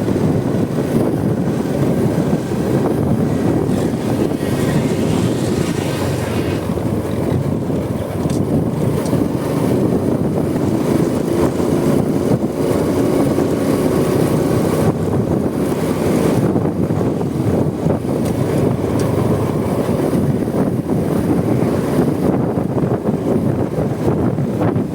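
Wind buffeting the microphone over the steady running of a Honda Supra X 125 motorcycle's single-cylinder four-stroke engine and road noise while riding. The hiss swells briefly a few seconds in and again about fifteen seconds in.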